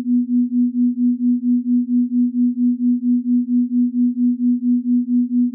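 A steady low electronic tone, pulsing evenly about four to five times a second, played as the supposed frequency at which cats purr.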